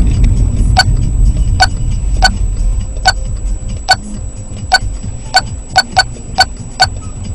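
A car's turn-signal indicator ticking, its clicks coming unevenly, over the low rumble of the engine and road heard from inside the cabin.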